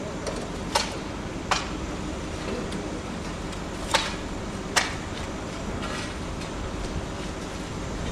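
Steady rumble of a rail vehicle in motion, with four sharp knocks coming in two pairs, typical of wheels crossing rail joints.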